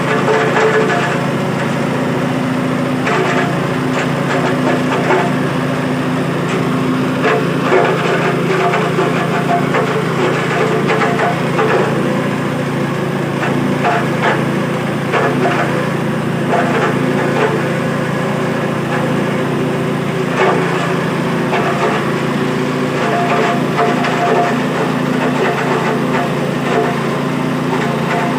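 Cassava grinding machine running: a steady motor hum with constant irregular crackling and rattling as cassava is ground.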